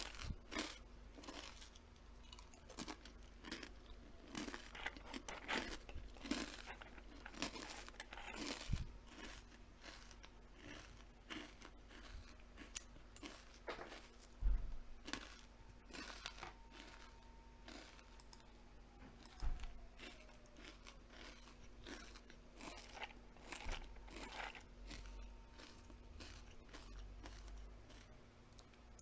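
Close-miked chewing of crisp, crunchy food: a person biting and crunching in many irregular crunches, with a couple of dull low thumps, the strongest about halfway through.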